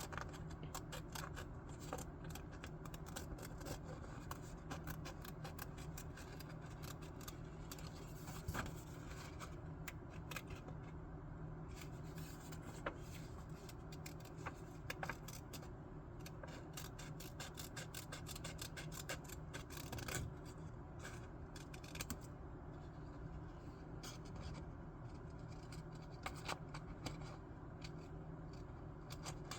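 Scissors cutting sketchbook paper, a run of many short crisp snips with paper rustling between them.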